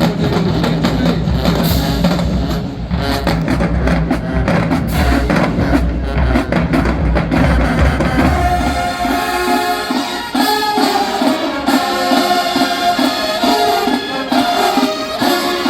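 HBCU-style marching band playing, with drums and horns. About eight seconds in the deep bass drops out and higher notes carry on over a steady drumbeat.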